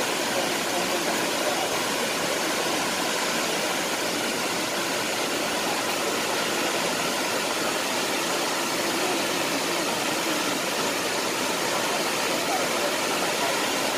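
Waterfall water falling and rushing: a steady, unbroken hiss of white water.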